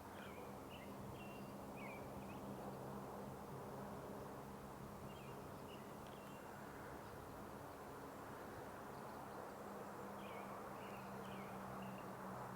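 A small bird singing short chirping phrases three times, about five seconds apart, over a steady low hum and a soft background rush.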